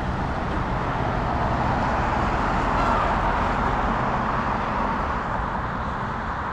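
Road traffic: a car passing, its tyre noise swelling to a peak about three seconds in and then fading.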